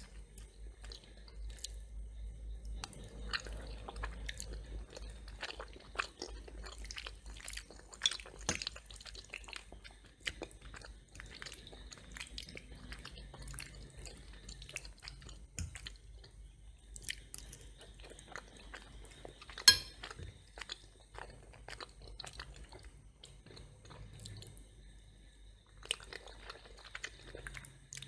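Close-miked chewing of macaroni and cheese with crunchy toast: irregular wet chewing and crisp crunching clicks. A single sharp crack stands out about two-thirds of the way through.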